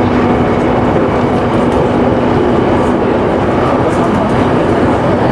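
Electric local train running along the line, heard from inside the front car: a steady rumble of wheels on rail with a low hum that fades out about halfway through.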